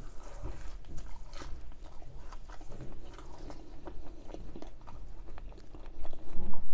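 Close-up eating sounds: a bite into a fried samosa, then chewing, the crisp pastry crunching with many small crackles. It gets louder near the end.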